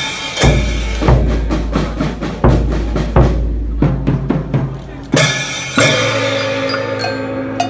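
Festival ohayashi band playing drums, a series of sharp drum strokes over a heavy low rumble. About six seconds in, a held, pitched tone comes in.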